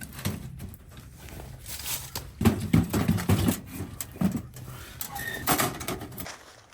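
Irregular knocks, clunks and rustling of firewood being handled and fed into a small tent wood stove, with a denser run of thuds about halfway through.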